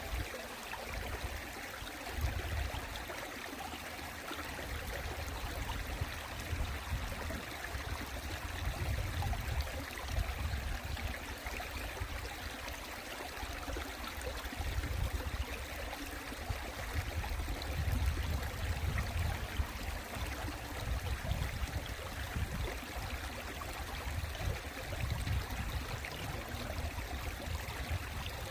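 Mountain stream water flowing and splashing over rocks, a steady rushing with an uneven low rumble that swells and fades underneath.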